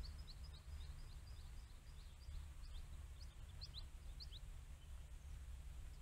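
A small bird calling a quick run of short, high, downward-slurred chirps, about four a second at first, then breaking up and stopping after about four seconds, over a low rumble.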